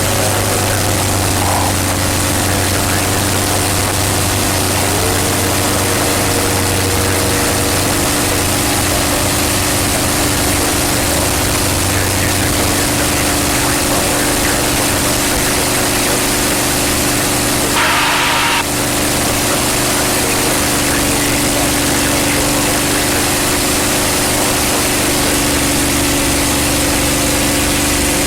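North American P-51 Mustang's Merlin V-12 engine running steadily in flight, a continuous loud drone, with a short higher-pitched burst of noise about eighteen seconds in.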